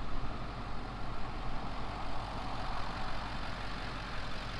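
Steady road and engine noise inside a moving car's cabin: a low rumble with an even hiss over it.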